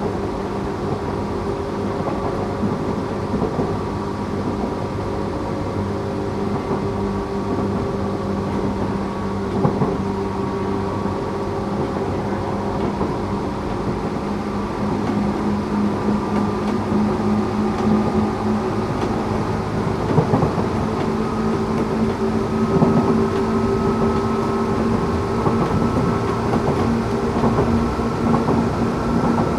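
Tokyu 8500 series electric train running, its Toyo-made traction motors and gears giving a steady hum of several tones over the rolling noise of the wheels. The tones creep up in pitch and get slightly louder in the second half, and a few short clacks of the wheels over rail joints come through.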